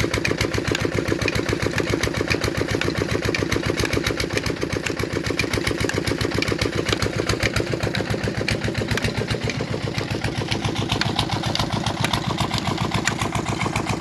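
Petter-type stationary diesel engine running steadily with an even, rapid firing beat.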